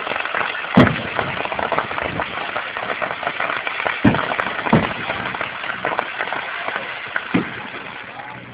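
Aerial fireworks going off: four separate booms of bursting shells, the loudest just under a second in, over a continuous dense crackle of crackling stars.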